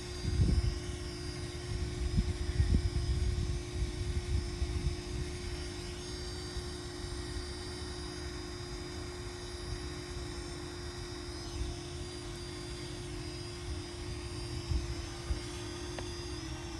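Parrot Anafi quadcopter's propellers giving a steady, even hum as it flies, with a faint high whine above it. Low wind rumble on the microphone gusts over it in the first few seconds.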